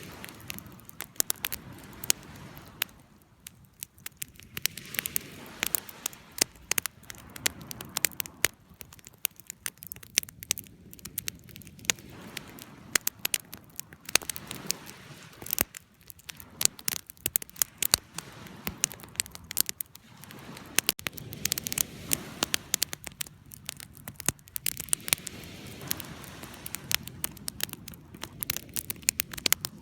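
Campfire burning, with frequent irregular crackles and pops over a low, soft hiss.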